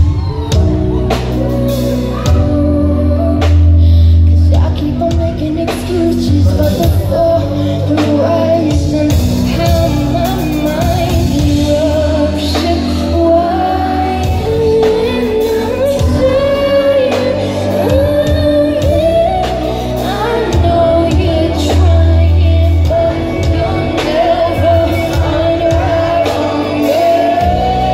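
Live R&B/pop concert music: a woman singing drawn-out, wavering vocal lines over a band with deep bass notes that swell twice.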